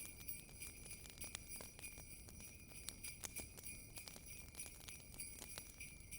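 Jingle bells ringing steadily over the scattered pops and snaps of a crackling wood fire.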